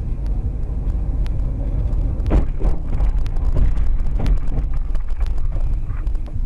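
A car on the move: a steady low rumble of engine and road noise, with scattered clicks and a few louder knocks about two to four seconds in.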